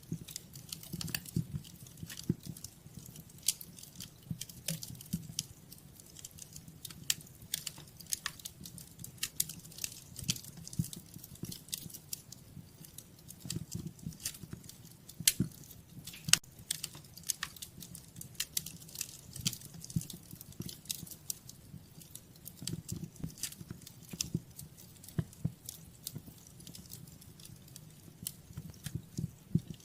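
Wood fire crackling in a fireplace: irregular sharp pops and snaps over a soft low rumble.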